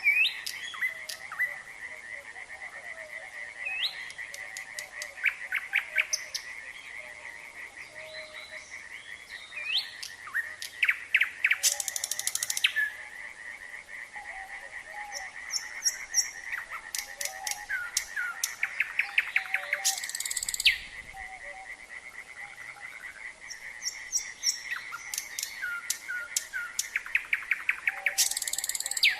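Nightingale singing over a frog chorus. The frogs keep up a steady, fast pulsing trill, while the nightingale's phrases come and go: rapid clicking runs, short rising whistles, and loud buzzy bursts a little before halfway, about two-thirds through, and near the end.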